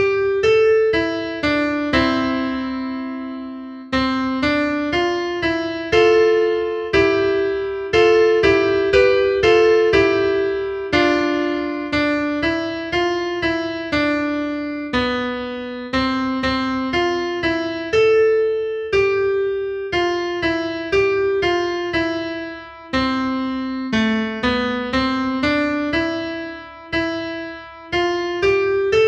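Solo piano music, a slow piece of single notes and chords, each struck and left to ring and fade.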